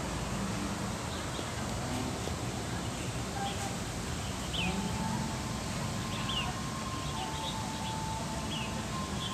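Faint, scattered bird chirps over a steady background hiss of outdoor ambience.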